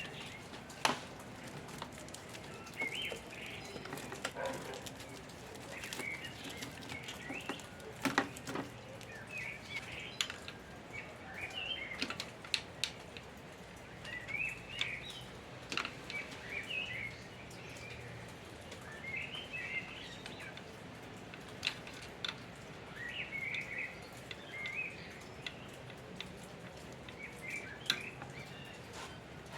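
Birds singing in short chirpy phrases every couple of seconds, with scattered sharp clicks and knocks.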